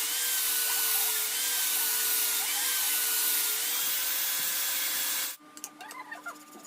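An electric power tool running on a workpiece, its motor pitch sagging briefly about once a second as it is pressed into the work, then stopping abruptly about five seconds in, leaving a few faint clicks.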